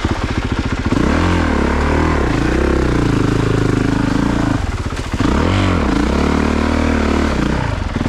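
Honda CRF450RX's single-cylinder four-stroke dirt bike engine being ridden under throttle, the revs rising and falling in surges as the rider works through deep ruts. The revs drop briefly about five seconds in and then pick up again.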